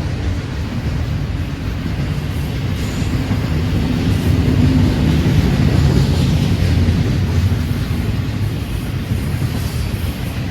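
Freight train rolling past with a steady, continuous rumble.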